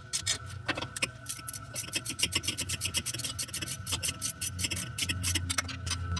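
Hand socket ratchet clicking rapidly in quick back-and-forth strokes as exhaust manifold bolts are run in. Music fades in near the end.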